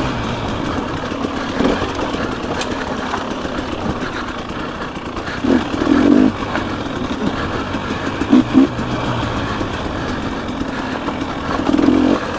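Dirt bike engine running while riding, with three short louder surges, about halfway, a little past two-thirds, and near the end.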